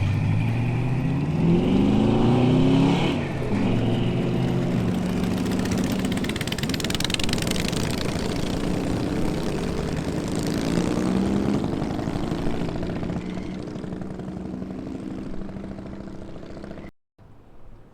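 Muscle car engine exhaust as the car pulls away. The engine revs up with a rising pitch about two seconds in and again around ten seconds, then fades as the car leaves. The sound cuts off abruptly near the end.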